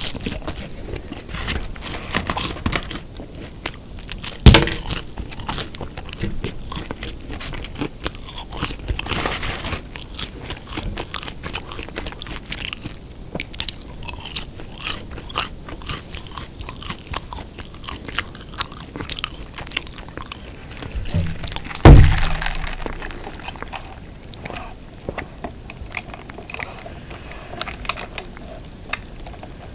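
Close-miked chewing and biting of a beef hamburger: soft crunches and many small wet mouth clicks. Two heavy thumps stand out, about four seconds in and about 22 seconds in.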